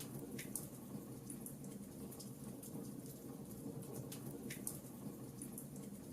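Wood fire crackling: a steady low rumble with scattered sharp pops, two louder ones near the start and about four and a half seconds in.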